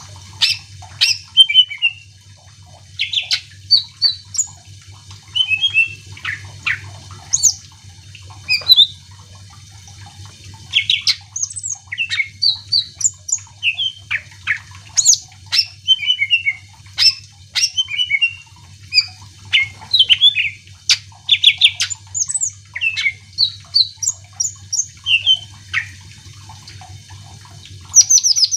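Green leafbird (cucak ijo) singing a loud, lively song of rapid short whistles, chirps and sweeping notes in quick phrases with brief pauses, the kind of song used to provoke other leafbirds into answering.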